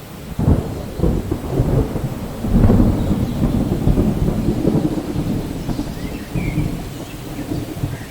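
Thunder over steady rain: a sharp clap about half a second in, then a long low rumble that swells around three seconds and rolls on through the rest.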